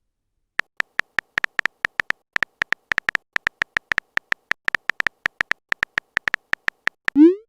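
Phone-keyboard typing sound effect: a quick, irregular run of short, high clicking taps, about four to five a second.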